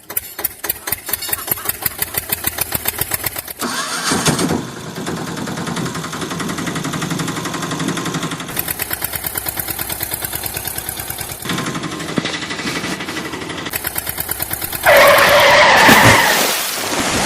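Vehicle engine sound effect: an engine chugging in rapid even pulses, starting and running, with steadier stretches between. A louder noisy burst of about a second and a half comes near the end.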